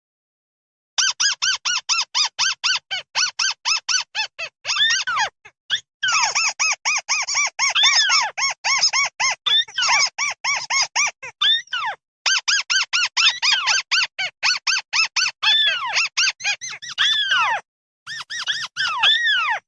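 Mắt xéo bird flock-calling: long runs of rapid, short, squeaky arched notes, about five a second, broken by brief pauses. Near the end a few longer notes slide downward.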